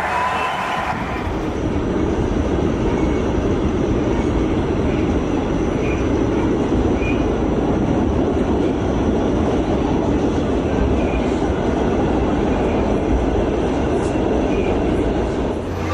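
Train running on the rails, a steady rumble.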